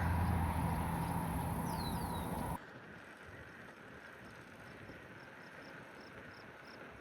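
Outdoor ambience: a steady low hum with wind-like noise and two quick falling bird chirps, cut off abruptly about two and a half seconds in. Then much quieter open-air background with a faint high chirp repeating about three times a second near the end.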